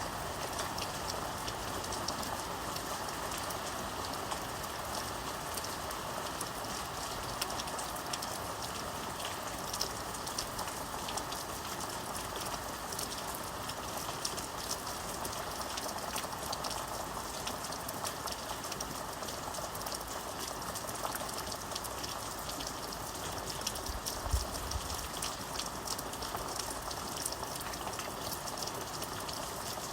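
Steady rain falling, an even wash of sound dotted with many fine drop ticks. A brief low thump sounds late on.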